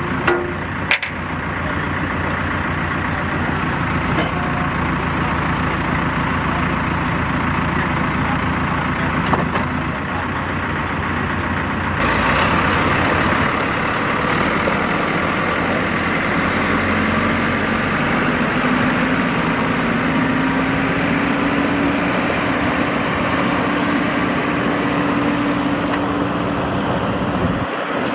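Diesel engine of a CAT 430E backhoe loader running steadily. About twelve seconds in it grows louder and busier, and later a held tone climbs slightly as the engine speed comes up.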